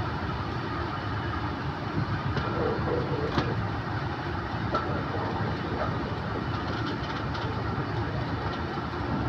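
Train of passenger coaches hauled by a Class 37 diesel locomotive, running slowly on a curve into a station, heard from a coach window: a steady rumble of wheels on rail with a few clicks, one sharper click about three and a half seconds in.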